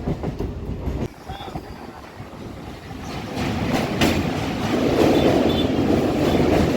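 Local electric train heard from on board while running between stations: steady wheel-and-track rumble with occasional clacks. The noise drops quieter about a second in and builds back up from about three seconds.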